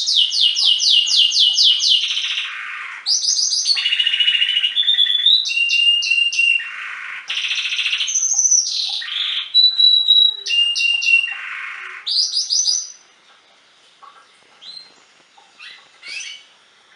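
Domestic canary singing a long song of rapid trills and rolls, phrase after phrase at different pitches. The song stops about two-thirds of the way through, leaving only a few faint chirps.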